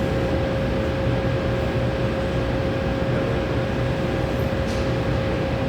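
Steady rushing background noise with a constant mid-pitched hum, the running machinery and air handling of a gym.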